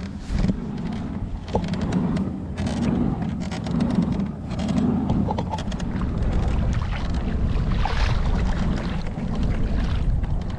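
Wind buffeting the microphone over water sloshing around a kayak as it is paddled, with a soft swell of water sound about once a second.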